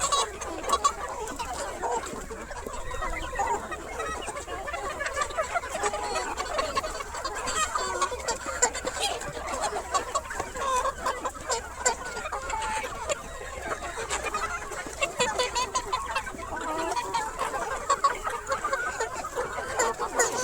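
A flock of desi chickens clucking and calling continuously, many short overlapping calls.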